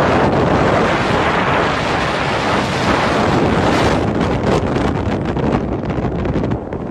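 Wind blowing hard across a microphone: a steady rush of noise that becomes gustier and crackly about halfway through.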